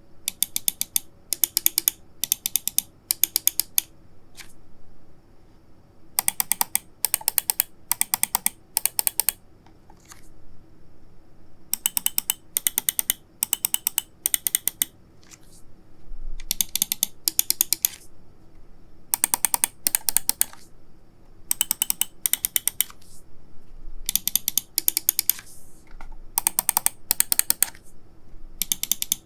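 Logitech G PRO X Superlight gaming mouse buttons being clicked, in short rapid bursts of several sharp clicks each, with pauses between the groups.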